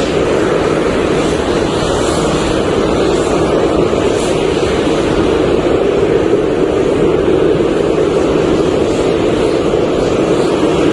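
Airplane engines running, a loud steady noise that holds even.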